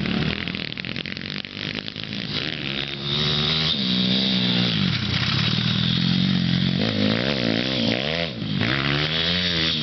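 Pit bike engine revving, its note rising and falling as the throttle is worked, with a quick run of short up-and-down revs in the last few seconds.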